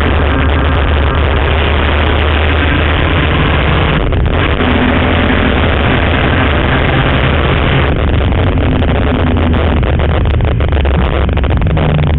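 BMW E46 M3's S54 straight-six engine running hard at speed on track, heard loud along with road and wind noise. The engine note breaks briefly about four seconds in and changes again about eight seconds in.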